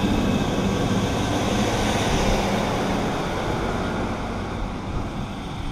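Diesel multiple-unit passenger train running along the platform close by: a steady engine hum and rail rumble that slowly fades towards the end as it moves off.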